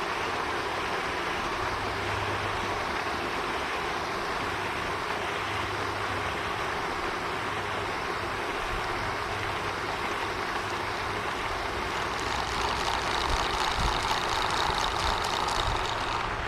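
Steady rushing spray of a pond's water fountain, with a low hum underneath; the rush grows somewhat louder about twelve seconds in.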